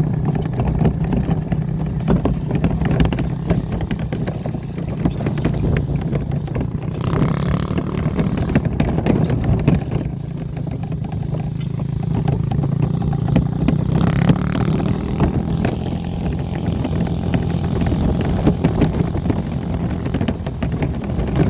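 Dirt bike engine running steadily under load while towing a wagon, with constant rattling and clatter from the rough ride. A brief rush of noise comes about 7 seconds in and again about 14 seconds in.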